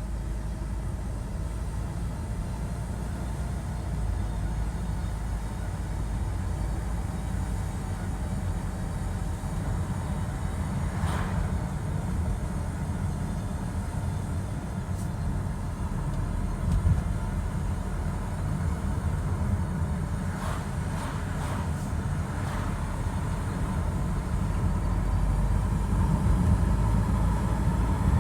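A Volvo XC60 driving, with a steady low road and engine rumble and a few brief high-pitched screeches rising above it.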